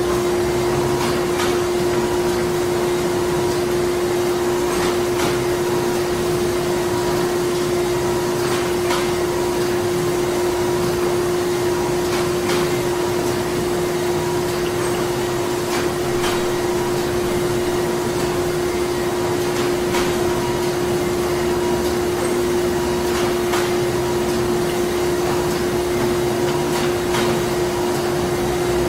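Printing factory machinery running steadily: a constant mechanical drone with a strong steady hum, and sharp clicks or knocks every second or few.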